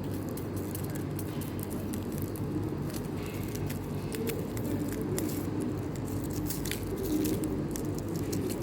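Steady low background hum, with light rustles and small clicks of a foil-wrapped takeaway packet of chips being handled during eating.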